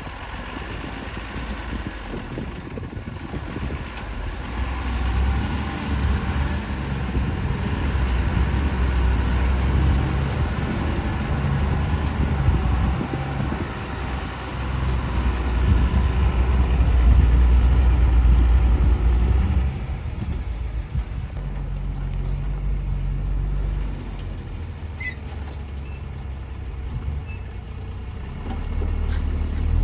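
Heavy diesel engine running under changing load, building louder through the first two-thirds, then dropping back about twenty seconds in to a lower, steadier running sound.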